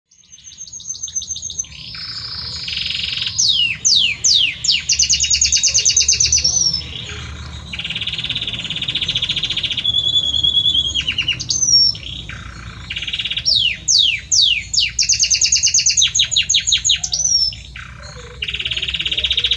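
Male domestic canary of the Belgian type singing a long, continuous song to a female. The song is made of rapid rolling trills and bursts of fast downward-sweeping notes, and its phrases come round again and again.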